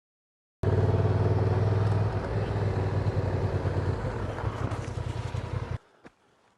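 Honda Transalp motorcycle engine running steadily, starting suddenly after a brief silence and cutting off abruptly near the end.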